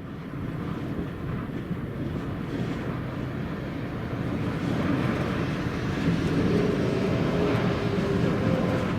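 Steady rushing road noise of passing traffic that swells louder about halfway through, with a faint engine hum in the last few seconds.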